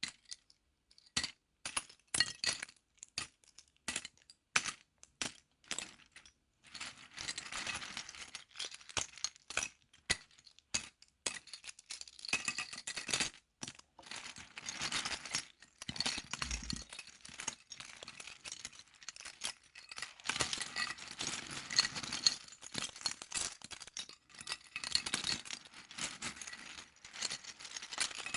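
Loose plastic LEGO bricks clicking and rattling as hands rummage through and handle them. Separate sharp clicks come first, then from about seven seconds in a near-continuous clattering.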